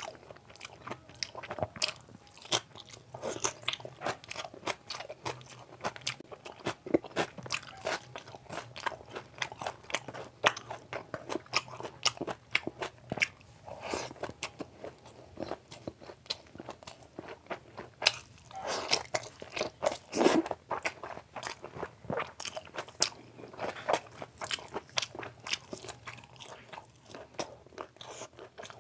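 Close-miked chewing of rice and curry eaten by hand: a steady run of wet mouth smacks and sharp clicks, a little louder and denser about two-thirds of the way through.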